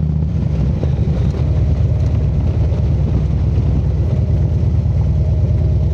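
Harley-Davidson motorcycle's V-twin engine running while ridden; its steady note breaks into rapid, uneven low pulses about a third of a second in as the engine speed changes.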